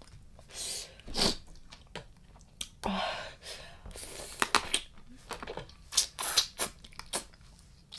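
Close-up eating sounds of spicy blue crab salad with raw vegetables: irregular crisp crunches and wet chewing, with a few short hissing bursts between them.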